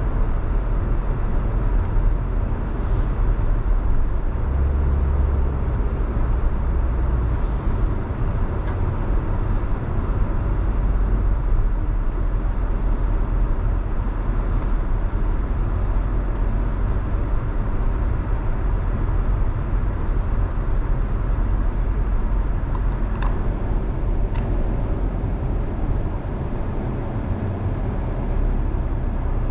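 Steady road noise from a car being driven on a rain-wet road: a low rumble of engine and tyres with a hiss from the wet surface. Two sharp clicks come a second apart about 23 seconds in.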